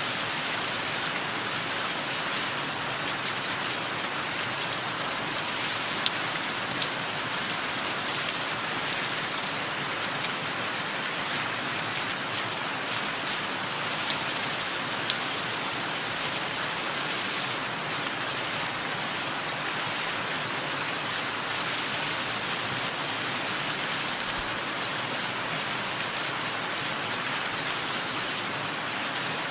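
Steady rain, with a small bird's high, short, downward-sliding chirps, mostly in pairs, repeating every few seconds.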